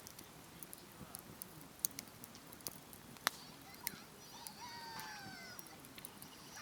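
Wood campfire crackling, with sharp irregular pops. About four seconds in, a wavering pitched sound with overtones that falls over roughly two seconds.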